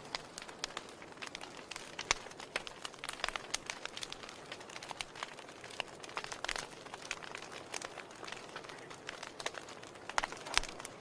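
Wood fire crackling in a fireplace: irregular snaps and pops over a soft hiss of burning. The loudest pops come about two seconds in and near the end.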